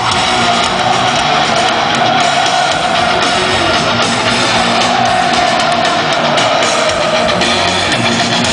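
Live heavy metal band playing loud, with distorted electric guitars and a drum kit.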